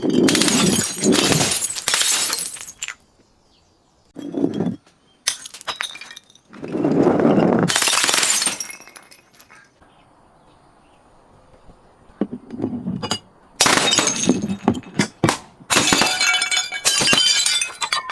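Glass bottles breaking and shattering, in repeated bouts of crunching and tinkling glass, with a quiet pause of a couple of seconds about halfway through.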